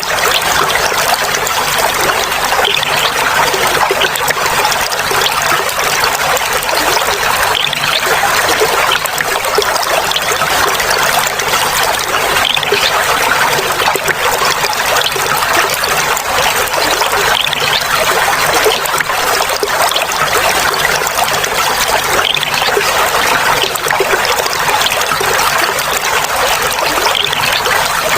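Clear water running and trickling steadily, a constant babbling splash with no pauses.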